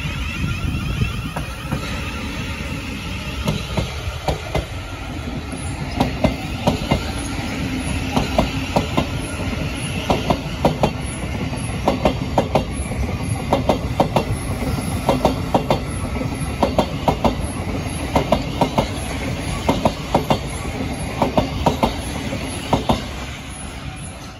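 Thameslink Class 700 electric multiple unit passing at speed: a steady rumble with a regular clickety-clack of its wheels over the rail joints, fading as the train draws away near the end.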